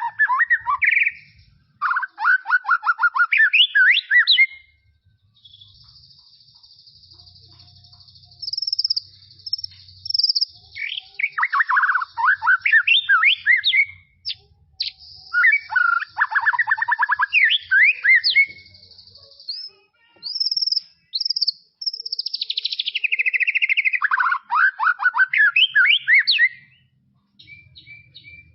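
White-rumped shama (murai batu) singing: bursts of rapid, varied whistled phrases every few seconds. A thin, high continuous trill runs behind them through much of the middle.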